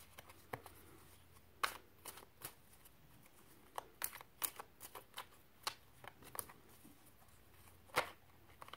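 Tarot cards being shuffled and handled: faint, irregular snaps and clicks of card edges, with short pauses between them.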